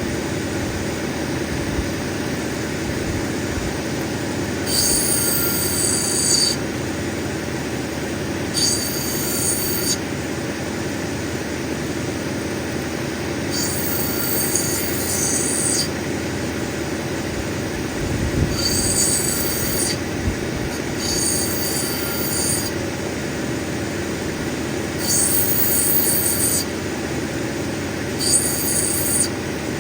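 Cabbing machine running steadily, with about seven high squealing bursts of one to two seconds each as the opal nobby is pressed against the spinning grinding wheel.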